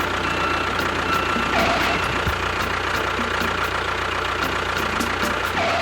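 Vehicle engine running steadily with a deep hum. A short beep repeats about once a second during the first couple of seconds, then stops. The engine sound cuts off abruptly at the end.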